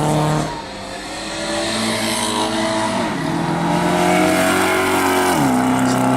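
Car engine accelerating hard through the gears: its pitch climbs, drops sharply with an upshift about three seconds in and again about five and a half seconds in, then climbs again.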